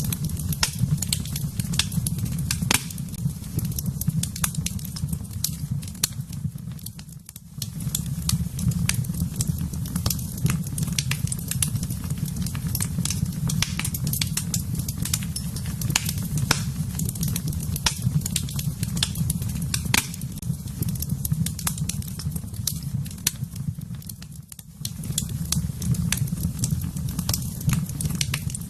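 Wood fire in a fireplace crackling and popping, over a steady low rumble that briefly drops away twice.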